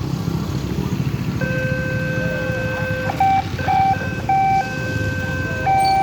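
Electronic level-crossing warning alarm sounding over a steady low traffic rumble. A single buzzy electronic tone starts about a second and a half in, then from about three seconds in it switches back and forth between two pitches.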